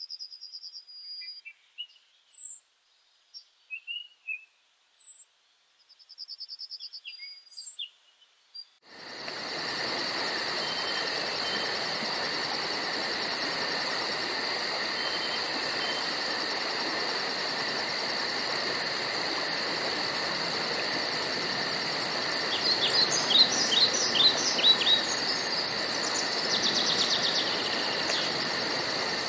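Songbirds calling one at a time, with short chirps and brief trills over silence. About nine seconds in, a steady woodland ambience cuts in: a constant insect drone and fast high-pitched trilling over a hiss, with a flurry of bird chirps and a short trill near the end.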